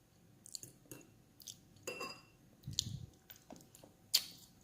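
A person chewing and eating fried tilapia and rice, with scattered small mouth clicks and light crunches and one sharper click near the end.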